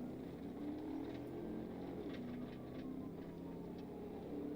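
Car engine running at speed under road noise, its pitch stepping up and down as the revs change.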